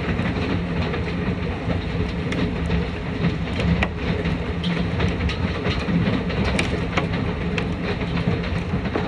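Heavy hail coming down: a dense, steady rattle of stones, with sharper single hits standing out through it.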